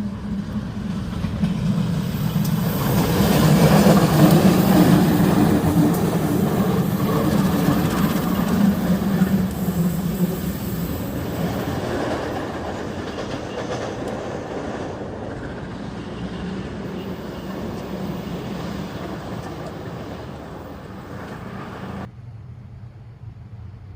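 Diesel locomotive train passing: the engine's deep running note and the rolling noise swell to their loudest about four seconds in, then slowly fade. The sound drops off abruptly near the end.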